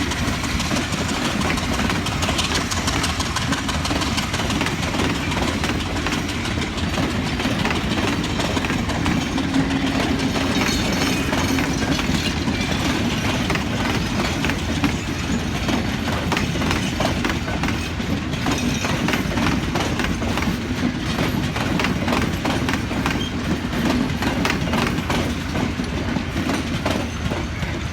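A diesel-hauled train running past with a steady heavy rumble. Its wheels click and clatter over the rail joints, the clicks thickest from about seven seconds in.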